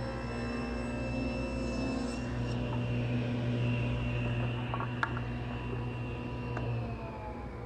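Table saw running with a 40-tooth combination blade, a steady hum and whine. About seven seconds in it is switched off and the pitch starts falling as the blade spins down. A sharp click comes about five seconds in.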